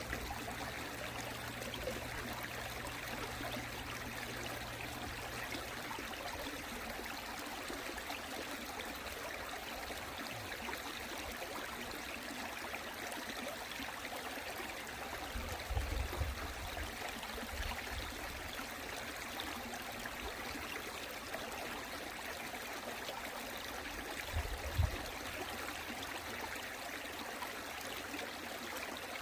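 Mountain stream flowing over rocks, a steady rushing babble of water. Brief low bumps about halfway through and again near the end.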